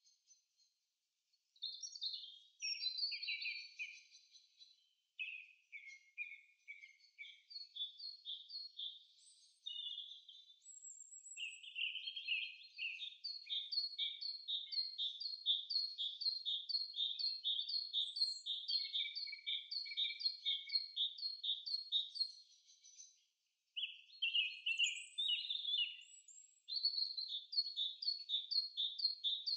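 Small birds singing: high, quick chirping phrases, with a long run of evenly repeated notes at about three a second through the middle and brief pauses near the start and about two thirds in.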